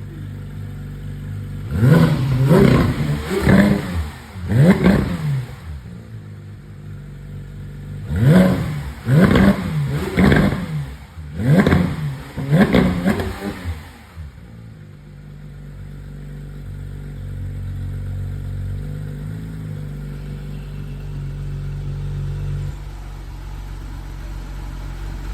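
Porsche 911 GT3's naturally aspirated flat-six engine revving in two bursts of quick throttle blips, each rev rising and dropping sharply, through a loud exhaust. Between and after the bursts it settles back to a steady idle, which holds for the last ten seconds or so.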